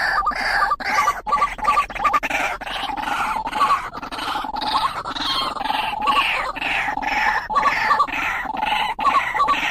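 White-breasted waterhen (ruak-ruak) calling, a harsh phrase repeated rapidly, about three times a second. It is the call used to lure a male waterhen.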